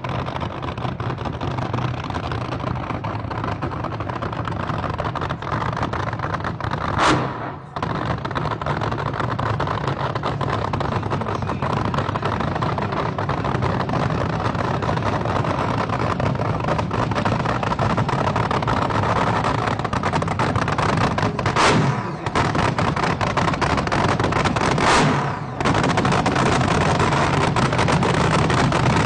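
Drag-racing engines running hard with a loud, continuous din, broken by three brief, very loud sharp blasts about 7, 22 and 25 seconds in.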